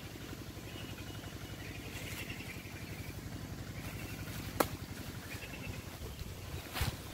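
Faint birds chirping over a steady, rapid low pulsing, with one sharp click about four and a half seconds in.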